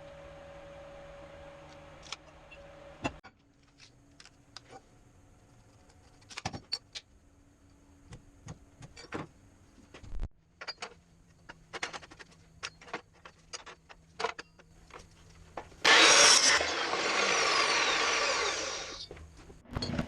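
Scattered clicks and knocks of parts and tools being handled. Then, about 16 s in, a power tool starts suddenly, runs loudly for about three seconds while easing off, and stops.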